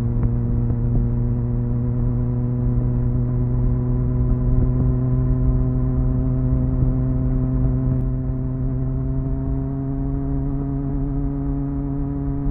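Triumph Speed Four's inline-four engine through its stock exhaust, running at steady cruising revs, its pitch creeping up slightly in the second half.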